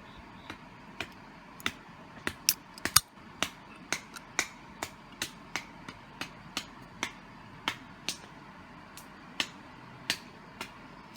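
Wood campfire crackling, with a string of sharp, irregular pops about two a second.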